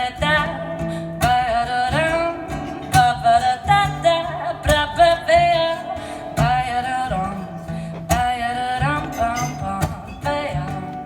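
Baritone ukulele strummed and plucked in a folk-jazz song, with a wordless sung melody over it that bends and wavers in pitch.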